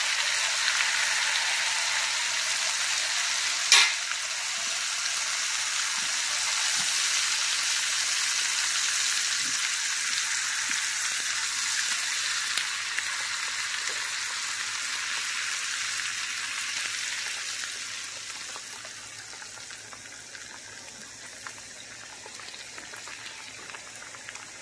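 Fried apple pies sizzling steadily in hot butter and oil in a pan, with one sharp clink about four seconds in. The sizzle dies down to a quieter hiss after about eighteen seconds.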